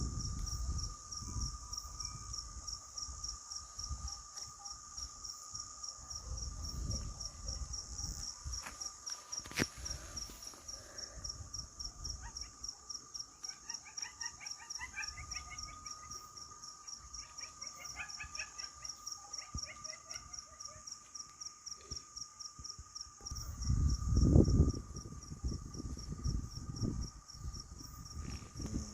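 Crickets chirping at nightfall in a high, evenly pulsed chorus, over a steady thinner drone from another insect. Faint quick chirps come in the middle, and low gusts of wind on the microphone, loudest near the end, rumble under it.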